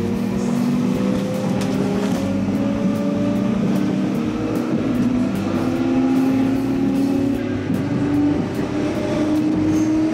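Electric train's traction motors whining with a slowly rising pitch as the train pulls out of the station and gathers speed, over the steady rumble of the car, heard from inside the cabin.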